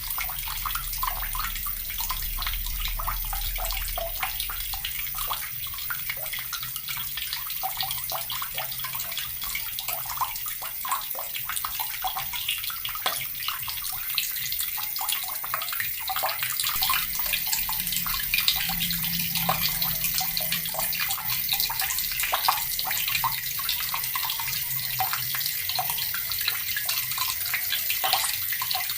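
Water running steadily from a tap and splashing, a continuous hiss with many small spattering splashes.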